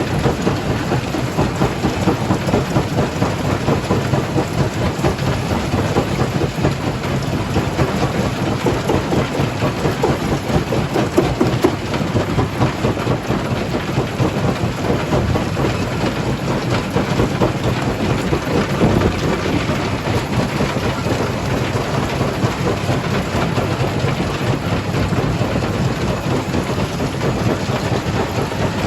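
Jaw crusher crushing rock: a heavy, continuous rumble with dense crackling and rattling of stone breaking and tumbling through the machine.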